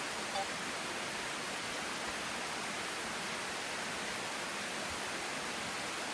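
Steady rushing hiss of a waterfall, with thin streams of water sliding down a broad rock face.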